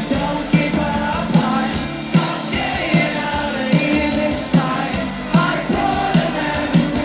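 Live indie rock band playing through an instrumental stretch of the song: a steady drum beat of a little over one hit a second under dense, loud instruments, with some wordless singing in the mix.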